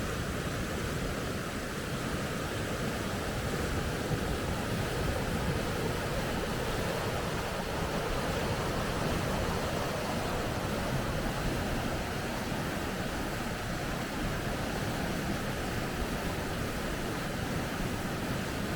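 Steady rushing of water over river rapids, an even noise with no breaks.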